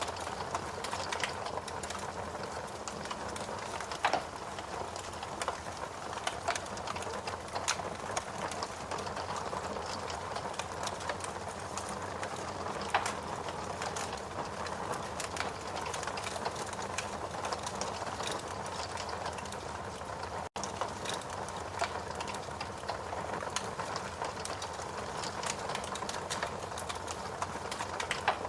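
Steady rain with a wood fire crackling, sharp pops now and then over the even hiss of the rain.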